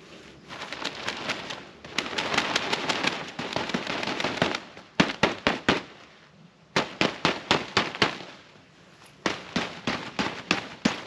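Rapid sharp crackling pops, dense and run together for the first few seconds, then coming in quick clusters of several pops with short pauses between.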